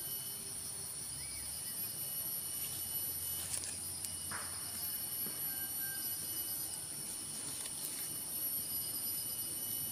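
Chorus of forest insects, several steady high-pitched drones, one of them pulsing evenly, with a few faint clicks.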